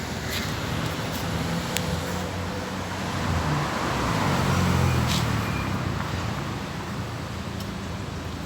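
Road traffic on a city street: a steady vehicle engine hum that swells as a car passes about halfway through, then eases off, with a few light clicks.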